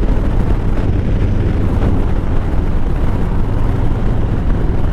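Harley-Davidson Softail Slim's V-twin engine running steadily at road speed, a low even rumble with a rush of wind and road noise over it.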